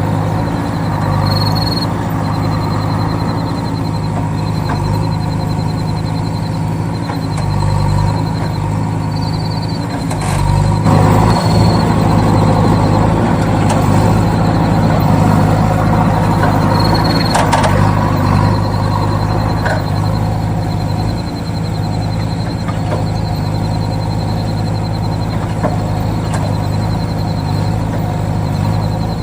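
Small motor running steadily in a DIY miniature model vehicle, a low even hum that gets a little louder for a while about ten seconds in.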